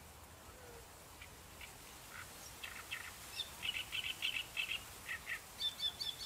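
A small bird chirping: short high notes that come faster into a quick run of repeated chirps in the middle, then a brief higher series of notes near the end.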